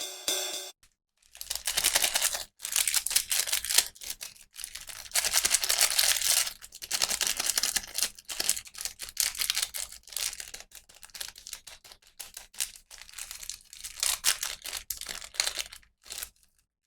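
Plastic packaging crinkling and tearing as a toy is unboxed, in irregular crackly bursts with short pauses. It starts about a second in and stops shortly before the end.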